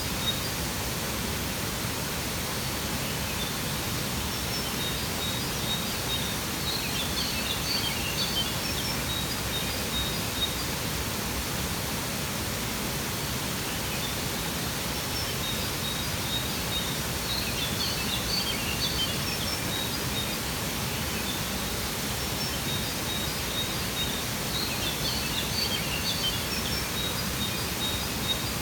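Waterfall rushing in a steady, even roar of water, with birds chirping in short clusters that come back every several seconds.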